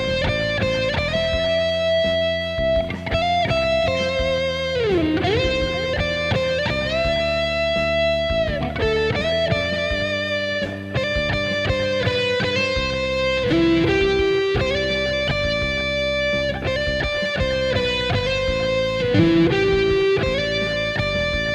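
Instrumental guitar music: a sustained electric guitar melody over plucked acoustic guitar and ukulele accompaniment. The lead bends its pitch down and back up a few seconds in.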